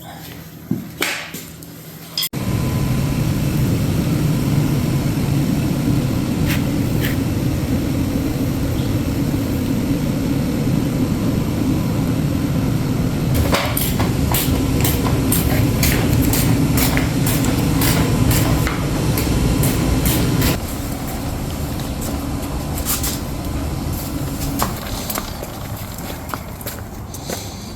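Electric dirt bike (a converted Yamaha YZ80) being ridden. A loud, dense rumble of tyres and wind starts suddenly about two seconds in and eases a little near the end, with many sharp rattling knocks over the ground in the second half.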